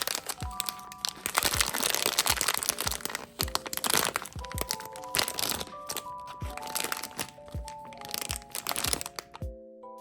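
Crinkling and crackling of blind-box packaging being handled and opened, over soft background music with a light regular beat. The crinkling stops near the end, leaving only the music.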